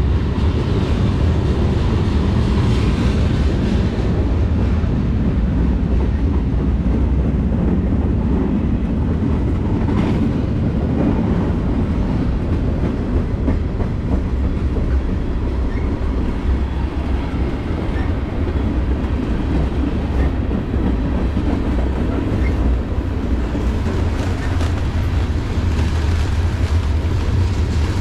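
Freight train of tank cars rolling past, a steady loud rumble of wheels on rail with an occasional sharp click, one about ten seconds in.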